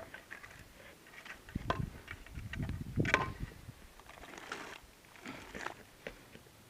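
Irregular rustling, crunching and small clinks from someone moving about and handling debris in an old dump, with a few louder thuds a little over a second in and about halfway through.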